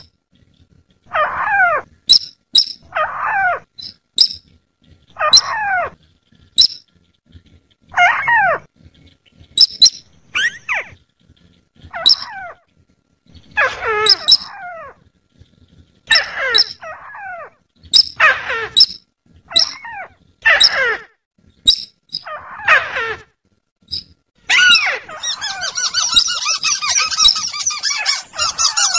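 Bird-luring call recording (pikat): short whistled calls that slide down in pitch, repeated about every second and a half, mixed with sharp high chips. Near the end a dense, harsh chattering call takes over.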